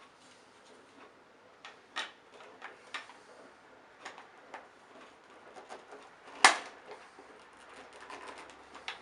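Scattered light clicks and taps of hard plastic and metal vacuum-cleaner parts being handled, with one sharp, louder knock about six and a half seconds in.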